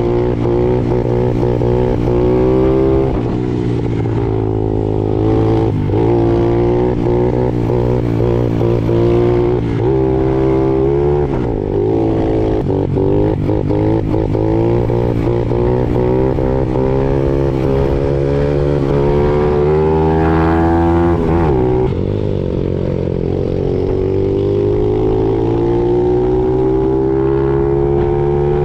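Honda CRF50 mini dirt bike's engine pulling hard while being ridden: the pitch climbs, drops sharply at each gear change and climbs again several times, then rises slowly and steadily near the end. The bike is geared up with a larger front and smaller rear sprocket for more top speed.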